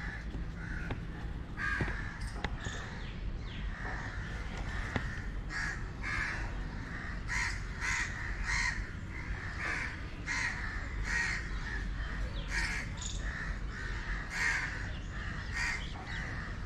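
A bird calling over and over in short calls, a few at first, then one or two a second from about five seconds in.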